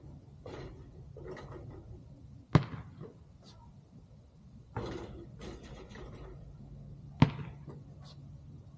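Basketball shooting practice: a basketball strikes hard twice, about two and a half seconds in and again near the end, amid softer swishing and scuffing noises.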